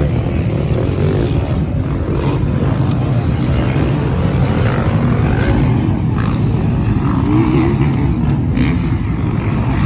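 450cc four-stroke motocross bike engines running on the track, revving up and down over a steady low rumble.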